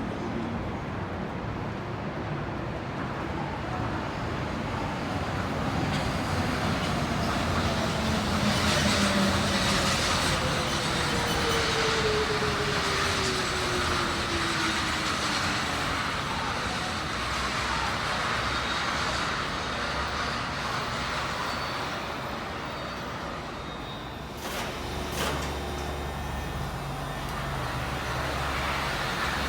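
Running noise heard inside a Tokyo Monorail 1000 series car, which uses resistance control. A motor whine falls steadily in pitch over about ten seconds, and a few sharp clicks come near the end.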